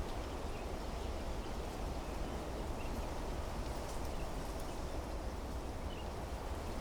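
Wind blowing steadily through trees and desert vegetation, with a deep low rumble. A few faint, short bird chirps come through now and then.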